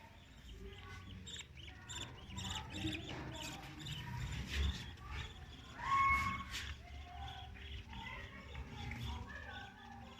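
Caged budgerigars chirping and chattering in many short calls, the loudest a held whistle about six seconds in.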